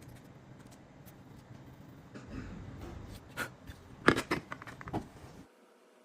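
Small tool scraping and clicking against an iPhone while its Lightning port and grilles are cleaned of dust: a few sharp clicks and short scrapes starting about two seconds in, the loudest about four seconds in.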